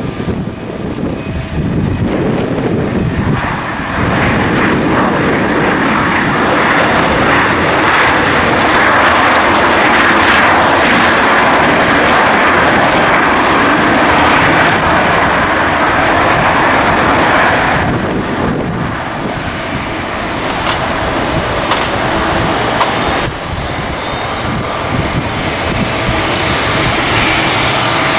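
Airliner engines running loud as a plane passes, a dense roar that swells a few seconds in, eases after about eighteen seconds, then builds again near the end with a faint rising whine.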